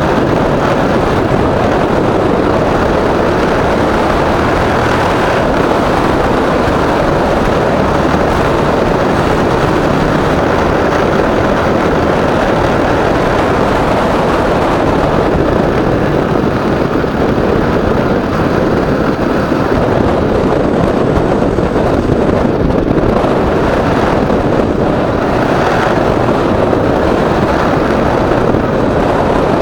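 A motorcycle in motion: the engine and a loud, steady rush of wind on the microphone, with no clear change through the ride.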